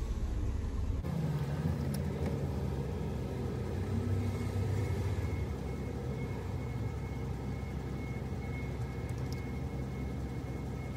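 Minivan engine idling with a steady low hum, heard from inside the vehicle; a faint steady high tone joins about four seconds in.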